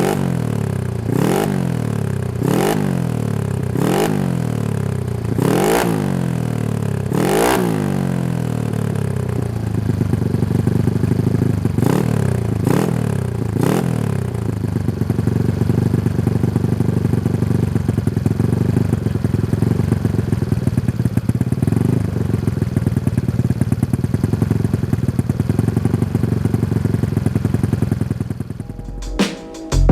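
Honda Scoopy scooter's single-cylinder four-stroke engine running through a CLD Racing New C2 aftermarket exhaust. The throttle is blipped in short revs about every second and a half, each falling back, then the engine settles to a steady idle putter that dies away just before the end.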